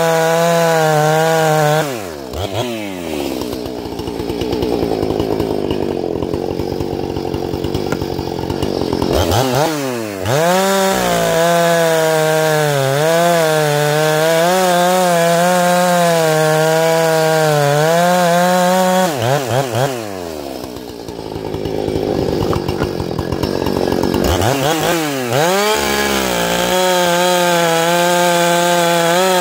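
Ported, muffler-modified Husqvarna 455 Rancher two-stroke chainsaw running at full throttle. Twice, about 2 s and 19 s in, its revs drop for roughly seven seconds as it is pulled down under load in a cut, then climb back to full revs.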